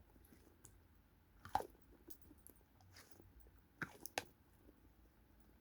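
A squishy toy being squeezed and handled: faint soft crackling with a few sharper clicks, the loudest about a second and a half in and around four seconds in.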